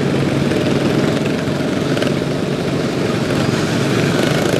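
Racing lawn mowers' single-cylinder overhead-valve engines running together in a steady, loud drone.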